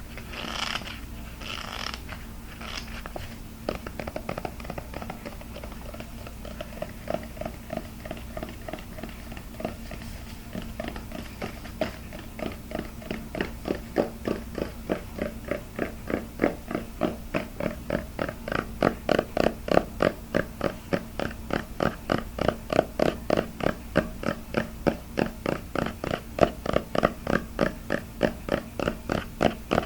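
Close-miked ASMR trigger sounds: a few rough, scratchy rubs at first, then a steady rhythm of short taps or rubs, about three a second, that grows louder about halfway through. A low steady hum sits under it all.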